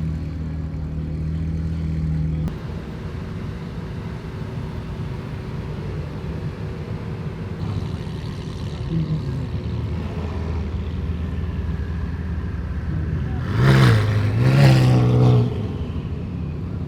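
Car engines running at a car meet, with a steady low hum that cuts off about two and a half seconds in. Near the end a car engine revs loudly twice in quick succession.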